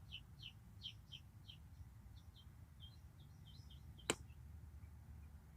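Faint bird chirping: a run of short falling notes, about three a second, that stops after about three and a half seconds, over a low steady rumble. A single sharp click about four seconds in.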